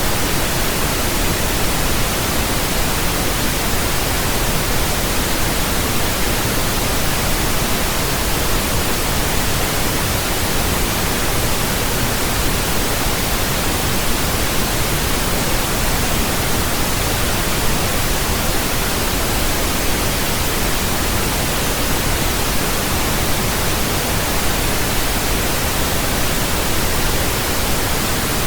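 Steady pink noise: an even, flat hiss with a deeper low end than white noise, unchanging throughout.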